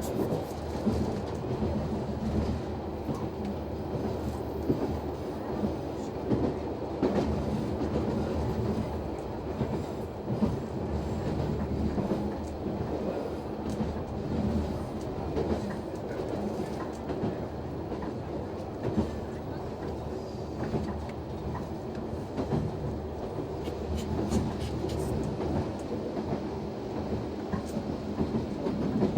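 Noto Railway NT100 diesel railcar running along the line, heard from inside at the front: a steady engine and running drone, with the wheels clacking over rail joints.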